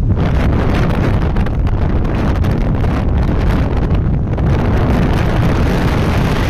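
Wind buffeting the microphone on a moving motorcycle, a steady dense rush with the engine and road noise rumbling underneath.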